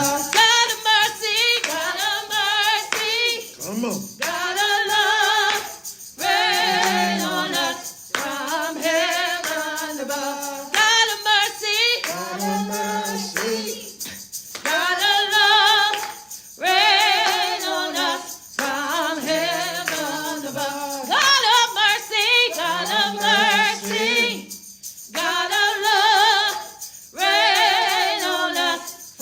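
Worship singing: a voice singing a slow gospel song in phrases of a second or two with heavy vibrato, pausing briefly between lines.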